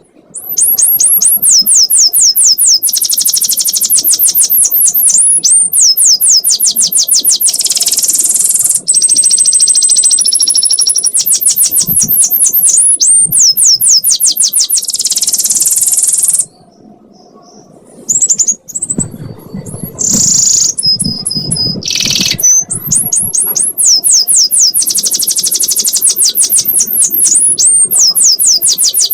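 Canary singing a long 'ngekek' song: rapid runs of high, downward-sweeping trill notes repeated many times a second, broken by a brief pause about two-thirds of the way through and a few separate whistled notes after it.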